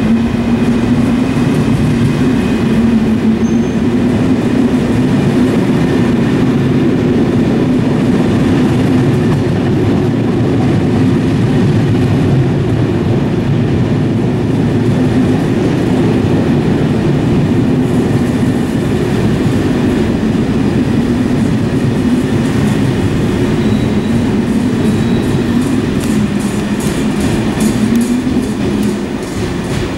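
Passenger coaches of a long locomotive-hauled night train running past on the track in an underground station: a loud, steady rumble of wheels on rail. Near the end comes a quick run of rhythmic wheel beats over the rail joints as the last coaches go by, and the sound then eases off.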